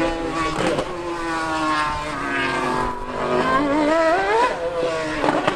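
High-revving racing engines running at a fast idle, with one revving up briefly about three and a half seconds in.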